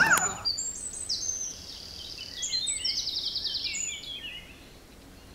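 Songbirds singing: high chirps and short whistled notes, with a fast trill in the middle, fading away near the end.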